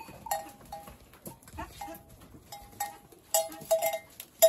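Goat bells clanking irregularly as the goats move about, each strike ringing briefly, the clanks coming thicker near the end.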